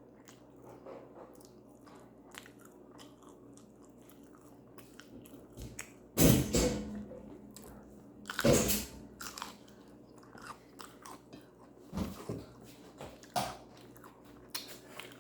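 Close-miked chewing and biting of food, with scattered small crunches and two louder bursts about six and eight and a half seconds in.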